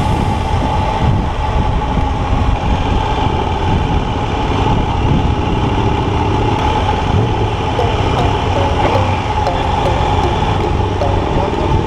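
Motorcycle running steadily on the road, with continuous wind and road noise.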